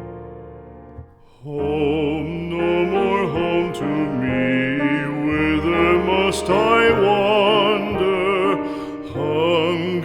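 Slow piano music: sustained chords fade out, then about a second and a half in a singer with wide vibrato begins a slow song over piano accompaniment.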